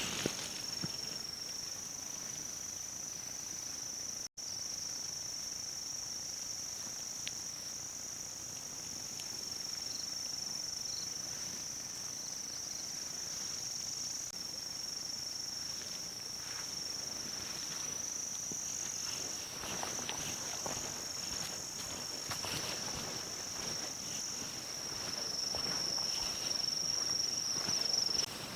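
Steady, high-pitched chorus of insects buzzing without a break. It cuts out for an instant about four seconds in, and some rustling joins it toward the end.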